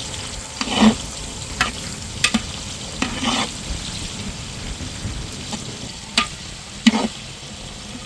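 Onions sizzling as they fry in hot oil in a pot, stirred with a utensil that scrapes and knocks against the pot about seven times.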